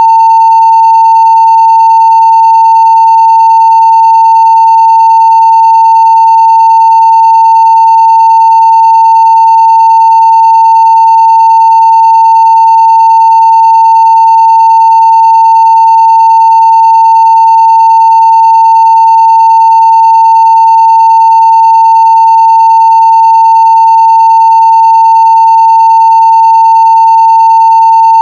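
A continuous 900 Hz sine-wave test tone at full scale (0 dB), loud and perfectly steady with no breaks or changes in pitch.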